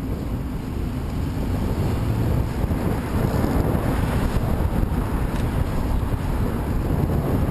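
Strong headwind buffeting the camera microphone, a steady low rumbling rush.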